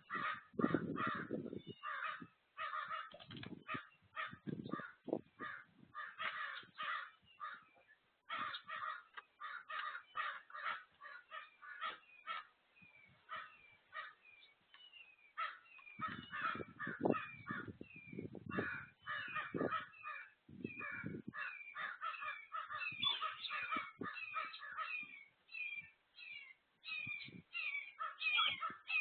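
Many birds at a feeder calling over one another in a dense, continuous chatter of short calls, some with quick downward slurs. Low rumbles come in near the start and again in the middle.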